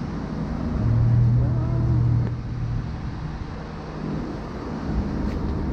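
Muffler-deleted exhaust of a BMW 340i's B58 turbocharged 3.0-litre inline-six running with a steady low hum, louder for a second or so near the start, then settling back to idle.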